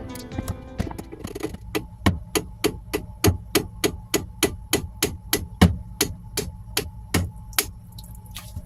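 Rapid, even hammer taps on the cover plate of a Sherwood raw-water pump, about three a second, stopping shortly before the end; the taps are breaking the old gasket seal loose so the cover can come off to replace the impeller.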